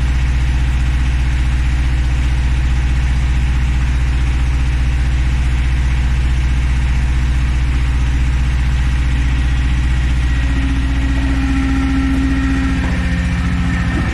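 Tractor engine idling steadily with a deep, even low-pitched sound.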